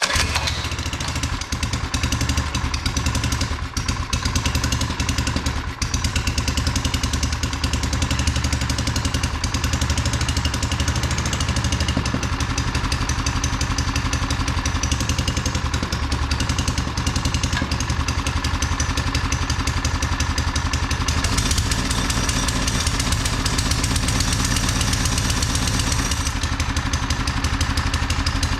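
Doodlebug minibike's small single-cylinder engine running steadily at a low, even speed just after firing up on a fresh carburettor, following years of sitting. It won't rev up, which the owner traces to a slack governor spring.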